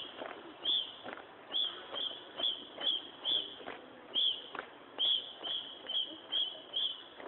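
A small bird chirping over and over, short high chirps at uneven intervals, roughly two a second. Scattered sharp knocks of drill moves run beneath it.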